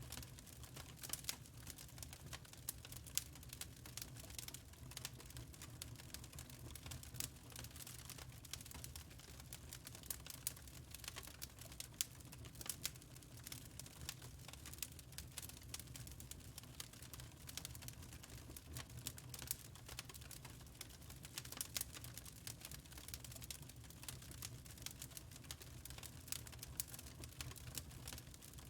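Wood fire in a fireplace crackling: irregular sharp pops and snaps, some louder than others, over a low steady background hum.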